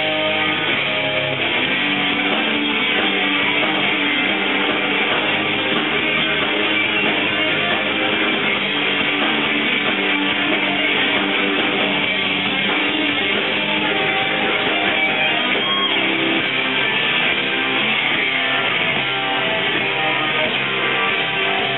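Rock band playing a song, with strummed guitars to the fore over bass.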